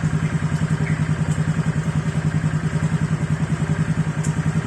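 Honda Vario 125 scooter's single-cylinder four-stroke engine idling through an aftermarket ABF Racing 'Standar Racing V2' stainless-steel exhaust, a steady, even run of exhaust pulses.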